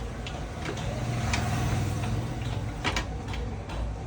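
Yamaha motorcycle engine running with a steady low rumble that grows louder for a couple of seconds in the middle, with a few sharp clicks over it.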